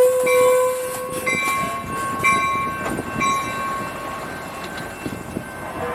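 Train horn sounding and cutting off about a second in, followed by a bell ringing about once a second over the rumble of a train on the tracks.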